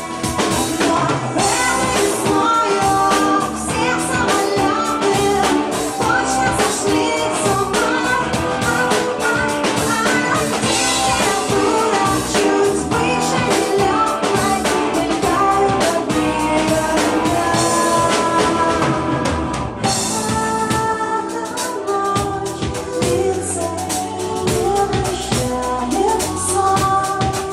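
Rock band playing live: singing over drum kit, bass and guitar. About twenty seconds in, the drums and bass drop out briefly, then come back in.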